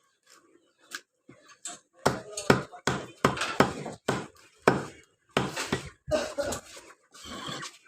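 Cleaver chopping chicken on a chopping block: an irregular run of sharp chops starting about two seconds in, several a second at times.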